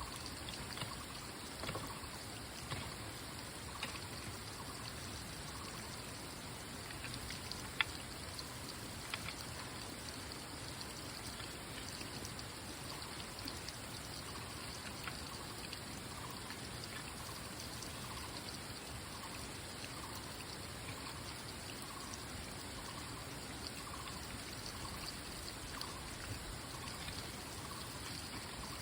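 Water trickling and running steadily, with scattered small clicks and one sharp click about eight seconds in.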